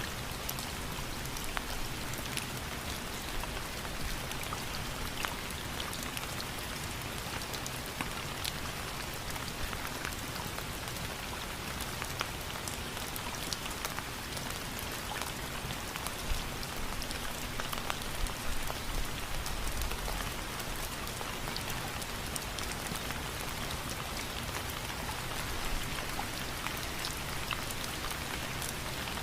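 Steady rain, with individual drops ticking on a surface over an even hiss. A faint low rumble swells briefly past the middle.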